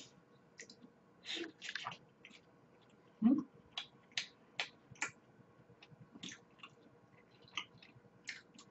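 Close-miked chewing of a thin piece of mango: many small wet mouth clicks and smacks. There is a brief low hum of the voice about three seconds in.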